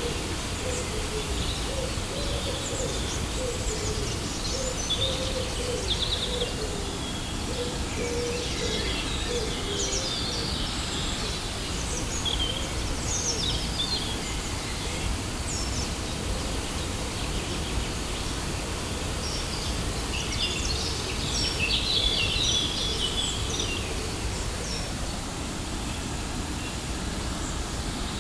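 Steady rush of a waterfall, with birds chirping in clusters over it and a lower repeated call through the first ten seconds or so.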